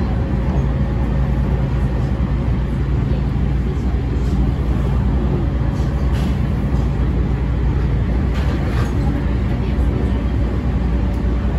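Running sound inside an E231 series 1000-number electric commuter train travelling at speed: a steady low rumble of wheels and running gear on the track, with a faint steady hum and a few faint clicks.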